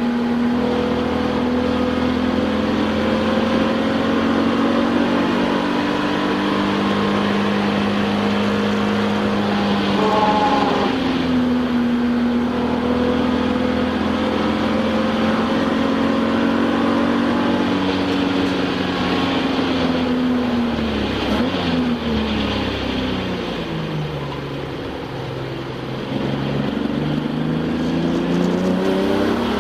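Touring-class race car's engine heard from inside the cabin, running hard at high revs. About ten seconds in it shifts, with a quick change in pitch. Later the revs fall steadily as the car slows for a corner, then climb again as it accelerates out.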